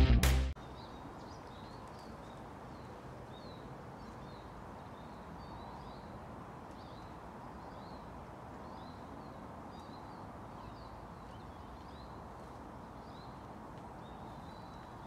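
Intro music cuts off about half a second in. Then comes faint outdoor ambience: a small bird chirping over and over in short quick notes above a steady hiss.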